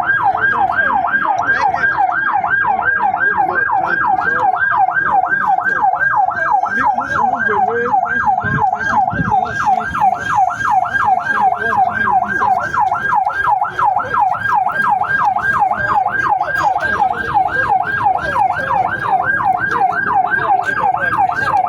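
Emergency vehicle siren sounding continuously in a fast yelp, rising and falling about three times a second.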